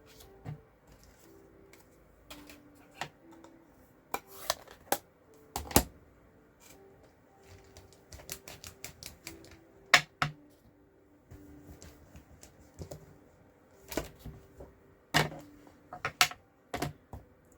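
Irregular sharp taps and clicks of stamping and paper-crafting tools being set down and pressed on a craft table, about a dozen scattered through, the loudest about ten seconds in.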